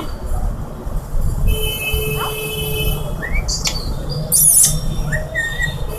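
Alexandrine parakeet giving several short rising chirps and one shrill squawk about halfway through, over a steady low background rumble.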